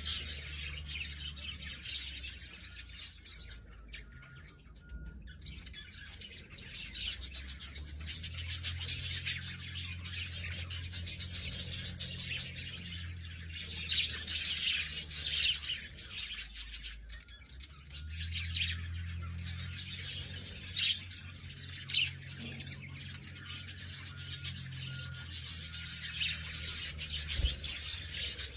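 Lovebirds chirping and chattering: many short, high chirps one after another, over a low steady hum.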